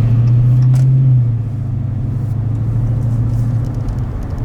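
Dodge Scat Pack's 6.4-litre HEMI V8 running with a low, steady rumble while the car is under way, a little louder for about the first second before easing slightly.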